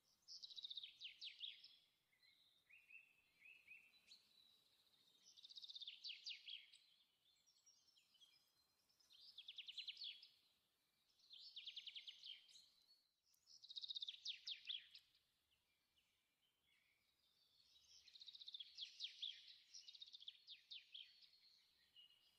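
A small bird singing: short phrases of rapid trilled notes, high-pitched and falling in pitch, repeated every few seconds with brief pauses between.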